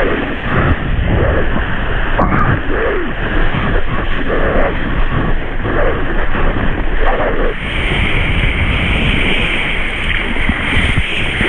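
Strong wind buffeting an action camera's microphone, mixed with water splashing and rushing under a kite-pulled skimboard. A steady high-pitched hiss joins about eight seconds in.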